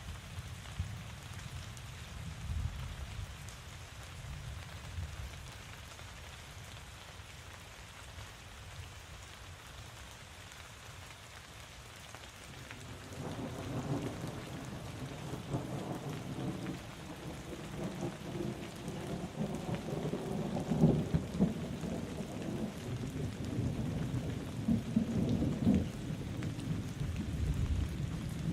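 Steady rain falling, joined about halfway through by a long roll of thunder that rumbles on and swells, loudest in the last third.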